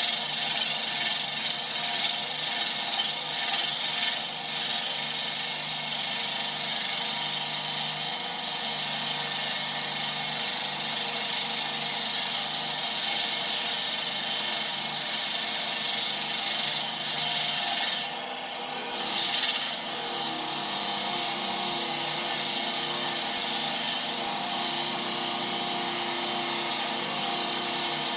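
Power tool working wood, a steady abrasive noise. It stops briefly about eighteen seconds in, then runs on with a steadier motor hum.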